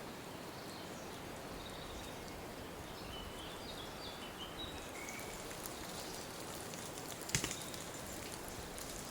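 Steady patter of water drops, with a few short, high bird chirps in the middle and one sharp knock about seven seconds in.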